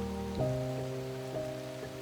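Gentle, slow piano music over a steady rain sound effect: a low chord is struck about half a second in, then a few single notes ring out over it.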